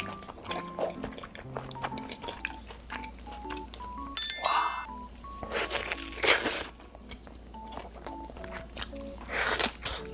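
Light background music with a simple note-by-note melody over close-up eating sounds: crunchy bites and chewing, with a few louder, noisier mouthfuls about four and six seconds in and again near the end.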